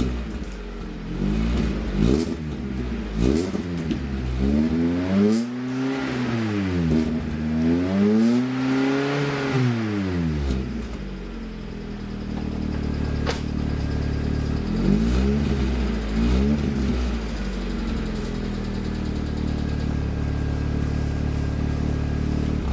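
Lada Kalina 2 Sport's exhaust, now fitted with a chambered muffler in place of the straight-through one, as the engine is blipped a few times, then revved up and down three times in longer sweeps. It settles to a steady idle about halfway through, with a few more quick blips later on.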